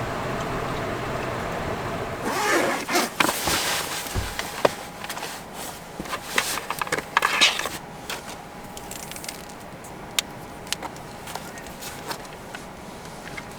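Close handling noise: rustling and scraping with sharp clicks for several seconds, then scattered clicks over a faint steady tone.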